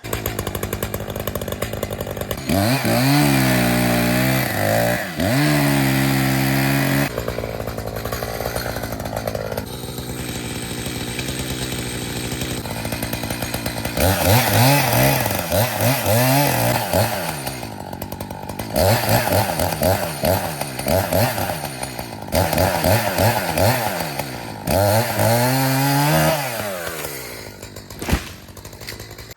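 Gas chainsaw felling a dead aspen, the engine revving up and down over and over as it cuts. A single sharp thump comes near the end.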